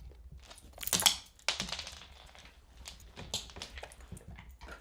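Golden retriever crunching dry dog kibble: a few irregular sharp crunches and cracks.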